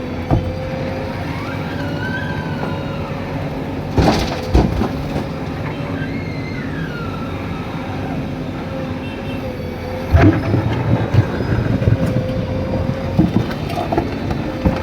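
JCB 3DX Super backhoe loader's diesel engine running steadily under load, with a held mechanical whine and a few sliding higher whines. Sharp clunks come about four seconds in and again around ten to eleven seconds.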